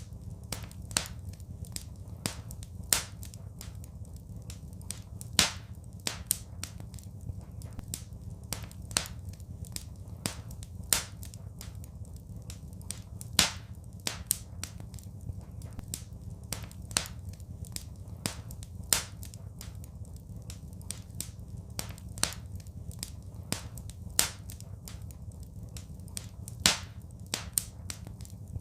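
Wood fire crackling in a fireplace: irregular sharp pops and snaps, one every second or so, some louder than others, over a steady low rumble.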